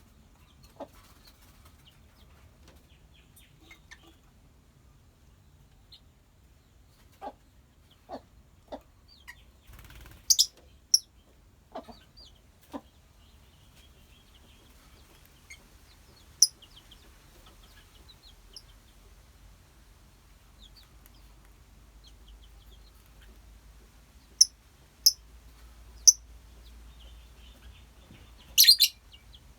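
A colony of lovebirds calling: soft continuous chatter with sharp, shrill single chirps breaking out every few seconds, several in quick succession near the end.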